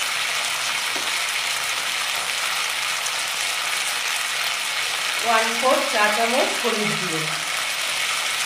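Chopped tomatoes sizzling steadily as they fry in hot mustard oil in a pan. A voice comes in briefly over the sizzle about five seconds in.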